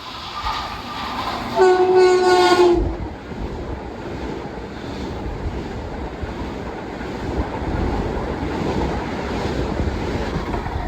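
Long Island Rail Road train sounding one short horn blast of about a second, followed by the steady rumble of the train running past on the rails.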